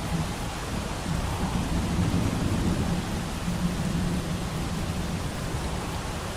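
Steady rain with a low roll of distant thunder that swells about a second and a half in and fades toward the end.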